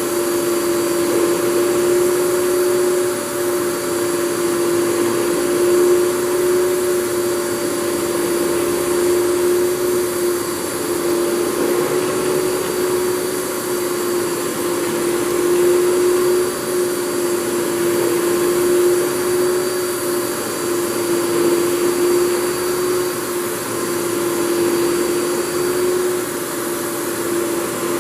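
Fantom Thunderbolt FM239 canister vacuum cleaner running steadily. Its 10-amp motor gives a constant whine with a faint high whistle over the rush of air.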